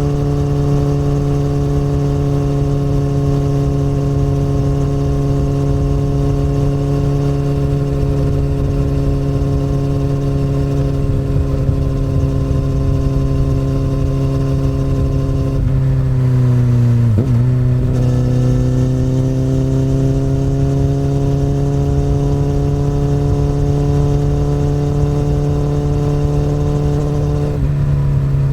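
Honda CBR1000RR's inline-four engine running through an Akrapovic exhaust under way, holding a steady note at first. About halfway through, the revs fall and dip sharply, then climb steadily for about ten seconds before dropping suddenly again near the end.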